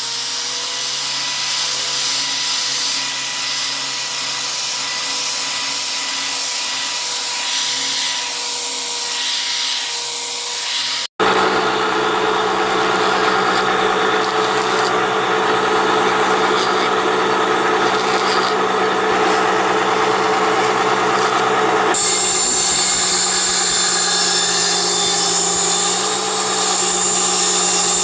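Electric power tool running steadily against pine wood, in two separately recorded stretches joined by a sudden cut about eleven seconds in; the second stretch is louder.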